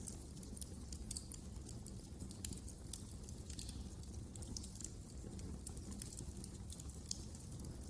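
Wood fire crackling in a fireplace: frequent irregular, sharp little pops and snaps over a low, steady rumble of flames.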